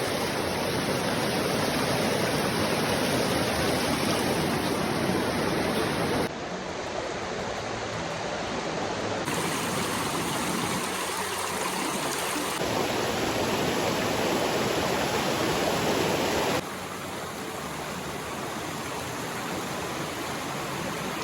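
River water flowing steadily, a continuous rush; the sound changes abruptly in loudness several times.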